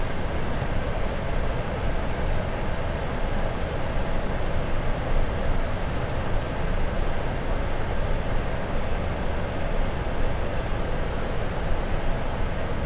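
Steady flight-deck noise of a Boeing 747-400 in flight on approach: an even rushing hiss of airflow and cockpit ventilation.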